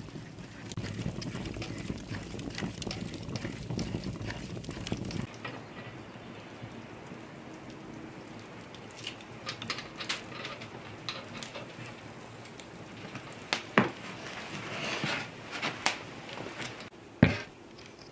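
Kitchen work with pots and utensils: a rough stirring and scraping sound for about five seconds, then it changes abruptly to scattered clinks and knocks of utensils and dishes, with two sharp knocks the loudest.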